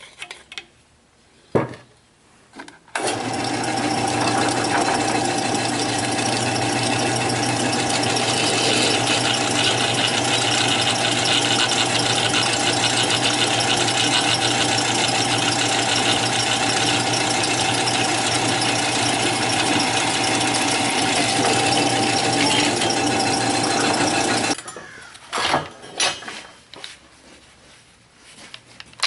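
A motor-driven shop machine starts about three seconds in and runs steadily, a constant hum and tone over a loud hiss, for about twenty seconds before stopping abruptly; a few clicks and knocks come before and after it.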